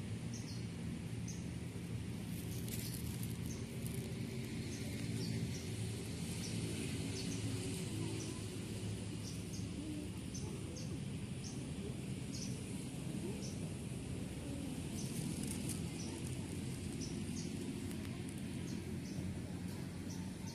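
Open-air ambience: a small bird chirping repeatedly, short high chirps about once a second, over a steady low background hum.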